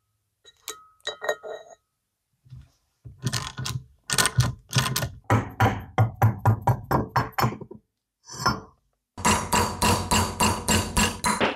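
Hand work on metal parts: a few sharp metal clinks, then quick repeated scraping or striking strokes at about four or five a second. They break off briefly, then start again in a faster steady run near the end.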